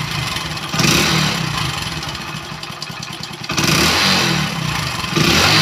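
Single-cylinder 100 cc Deluxe motorcycle engine idling and blipped up three times on the throttle, with a rattling clatter under the revs. The mechanic takes it for piston noise from a worn bore, with some timing-chain noise as well; other mechanics had called it the crank.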